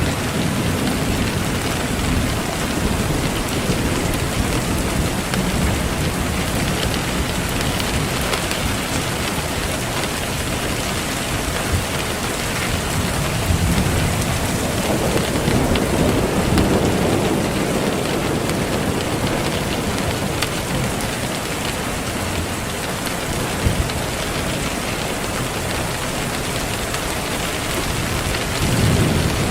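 Steady rain with thunder rumbling. Low swells of thunder rise near the start, about halfway through, and again near the end.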